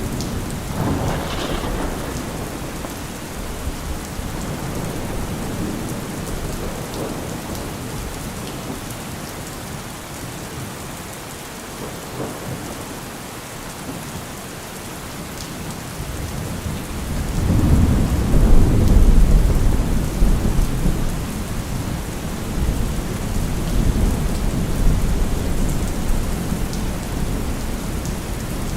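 Heavy rain falling steadily, with a deep low rumble swelling up about two-thirds of the way through and easing off again.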